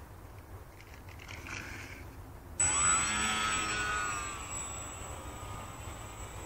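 Electric motor and propeller of a foam RC model Cessna 150 whining up abruptly about two and a half seconds in, then running at a steady high pitch that eases slightly.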